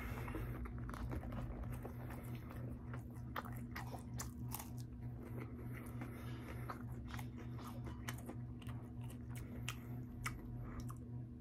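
A person biting and chewing wavy-cut french fries, with many small crisp crunching clicks throughout. A steady low hum runs underneath.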